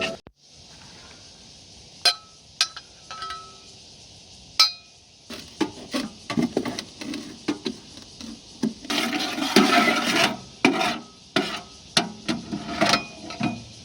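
A metal ash tool clinking and scraping inside a titanium wood stove's firebox as ash is cleared out. Scattered light clinks, a few with a short metallic ring, and a denser stretch of scraping about nine to ten and a half seconds in.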